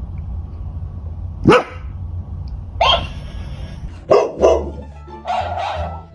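A dog barking: four short, sharp barks spread over a few seconds, then a wavering, higher sound near the end.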